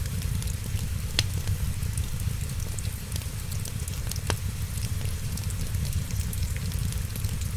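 Wood fire crackling with scattered small snaps over a steady low rumble, with two sharper pops, about a second in and about four seconds in.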